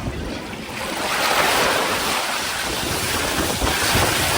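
Loud, steady rush of water, with wind buffeting the microphone, building about a second in.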